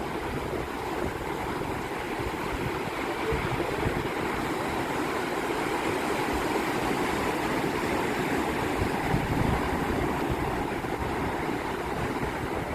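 Sea surf: waves breaking and washing in as a steady rush, with wind buffeting the microphone.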